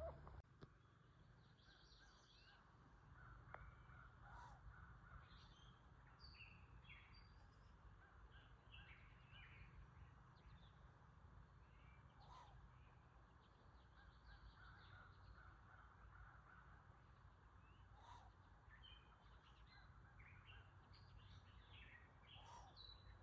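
Faint outdoor ambience of wild birds: many short, high chirps and calls scattered throughout, with a few lower calls every few seconds, over a steady low rumble.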